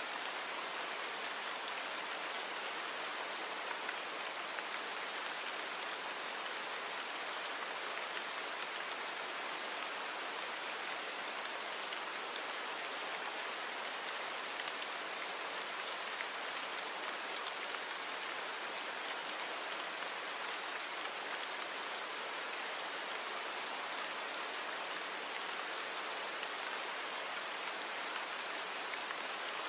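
Steady rain falling, an even, unbroken hiss of drops with little low end.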